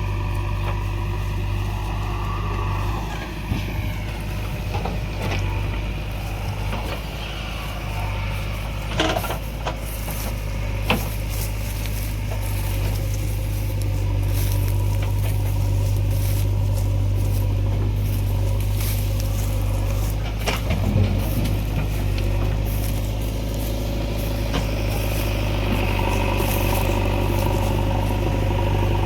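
A heavy diesel engine running steadily at a low, even pitch, with a few sharp knocks: one about nine seconds in, another about eleven seconds in, and one about twenty-one seconds in.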